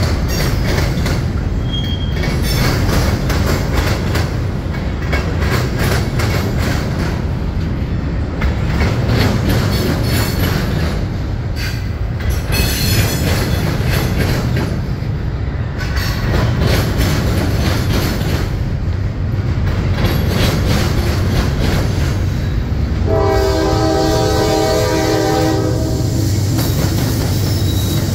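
Freight cars rolling past close by, their steel wheels clattering over the rail joints and the diamond crossing with a steady rumble. About 23 s in, a Norfolk Southern diesel locomotive's multi-chime air horn sounds and is held to the end.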